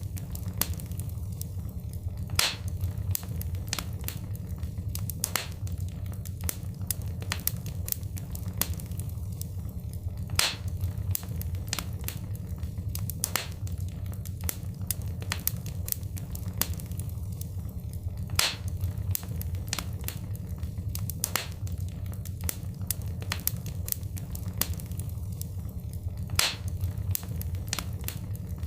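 Wood fire in a fireplace crackling: many small snaps and a louder pop every few seconds over a steady low rumble of the flames. The same pattern of pops comes back about every eight seconds, as in a looped recording.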